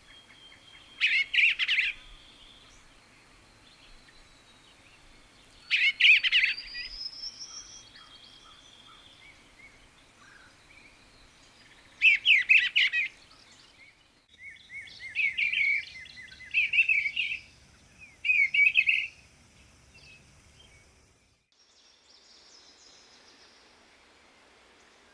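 Songbirds singing: short, quick song phrases about a second long, several seconds apart, then three phrases close together, over a faint steady high tone.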